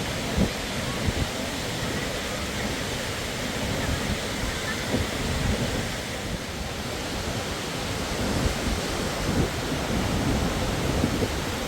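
Steady rush of water from a waterfall, with a few brief low thumps mixed in.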